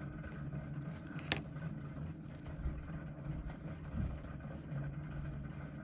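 Steady low background hum with one sharp click about a second in and a softer knock near four seconds: small watch-repair tools and parts handled at the bench.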